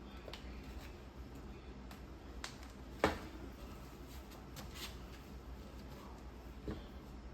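Scattered small clicks and handling noises from caulking work, the sharpest and loudest about three seconds in.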